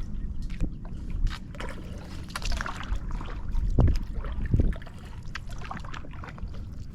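Kayak paddle strokes: the blades dip and drip water at an uneven pace, over a low rumble of wind on the microphone.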